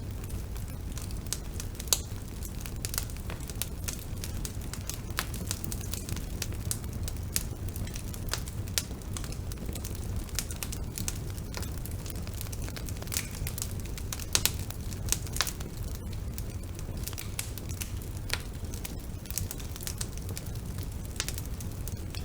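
Bonfire burning: a steady low rumble of flames with irregular sharp crackles and pops of burning wood, a few louder pops standing out.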